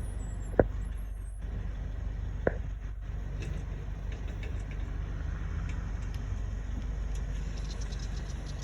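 Motor vehicle engine running steadily with a low rumble. A sharp knock comes about half a second in, and a softer one near two and a half seconds.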